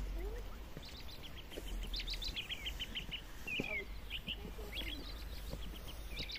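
Small songbirds chirping: quick runs of short high notes with a couple of downward-slurred calls, over a steady low rumble.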